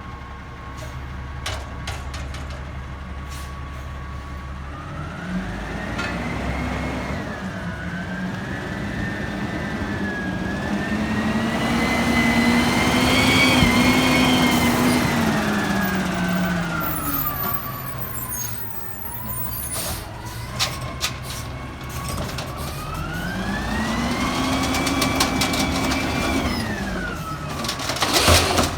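Peterbilt 320 garbage truck's diesel engine idling, then revving up and slowly back down twice: a long rise and fall, then a second, shorter one. A few sharp clanks come near the end.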